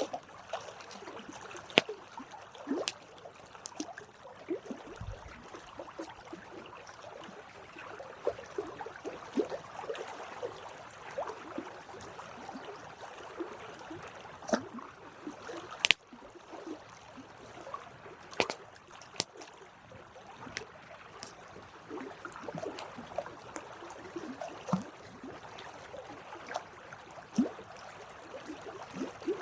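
Campfire crackling: a soft steady hiss with irregular sharp pops and snaps, a few of them louder, including one about halfway through.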